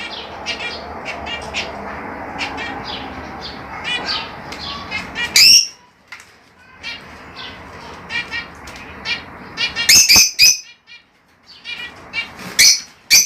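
Budgerigars chirping and squawking in short, sharp calls, with the loudest bursts about halfway through and near the end. Wings flutter steadily through the first half and stop suddenly.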